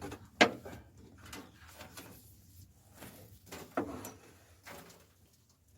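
Metal knocks and clatter at a wood-burning fireplace's firebox: a sharp knock about half a second in, another just before four seconds, and lighter rattles between.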